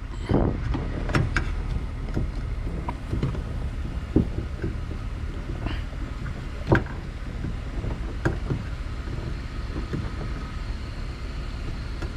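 Scattered light clicks and knocks of a wiring harness and plastic parts being handled inside a car door, over a steady low rumble.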